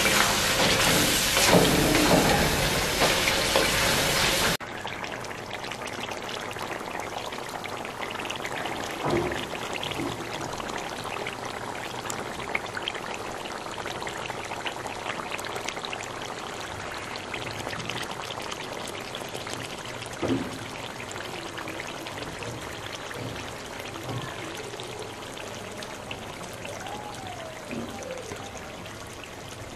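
Chicken karahi frying in oil and gravy in a steel karahi, a loud steady sizzle that drops suddenly about four and a half seconds in. A quieter, continuous crackle and spatter of the bubbling gravy follows.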